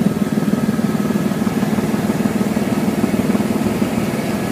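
Helicopter running steadily, heard from inside the cabin: a loud, even engine hum with a rapid rotor beat.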